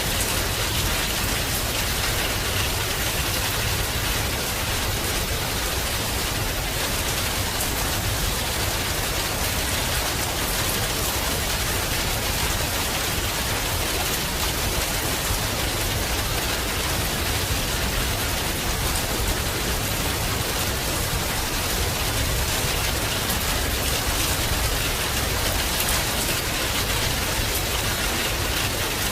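Heavy rain falling steadily, an even hiss with a low rumble underneath and no thunderclaps.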